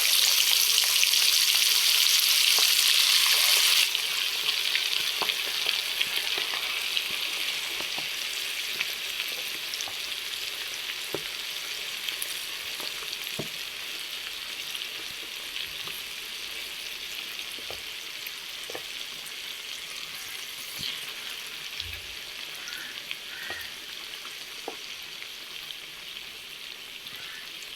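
Marinated chicken pieces deep-frying in hot oil, a dense sizzle that is loudest for about the first four seconds, then drops suddenly and slowly dies down as the frying settles. A few faint clicks sound over it.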